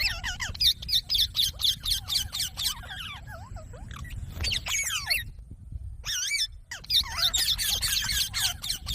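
Green parrot chattering in fast, high warbling chirps and squeaky calls that bend up and down in pitch, with a pause of about a second just past the middle.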